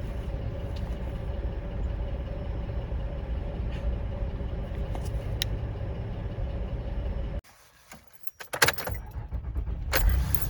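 Honda Pilot's V6 engine running steadily at idle, stopping abruptly about seven seconds in. A few sharp clicks and rattles, like keys being handled, follow near the end.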